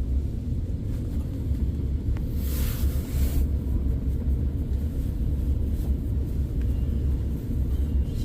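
Steady low rumble of a KTX train heard from inside the carriage, with a brief rushing hiss about two and a half seconds in.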